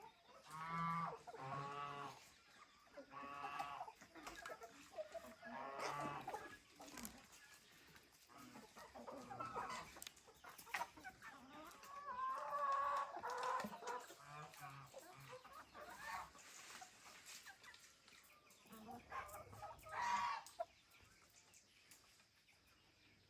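Domestic chickens clucking, a string of separate calls every second or two.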